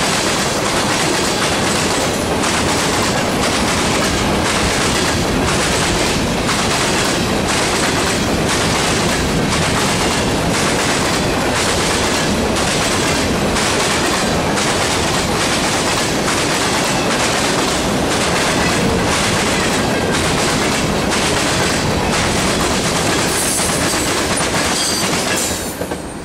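Norfolk Southern freight train's tank cars and covered hoppers rolling past close by, wheels clicking over the rail joints in a steady rhythm about every two-thirds of a second. A few brief high wheel squeals come near the end, then the sound drops away as the last car clears.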